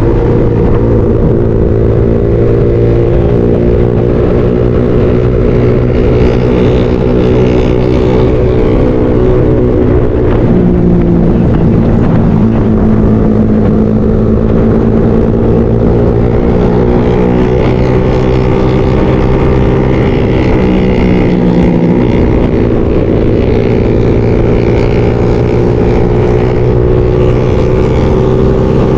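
Motorcycle engine running steadily under way, heard from the rider's own bike, with road and wind noise; the engine note shifts in pitch a couple of times, around ten and twenty seconds in, as the throttle or gear changes.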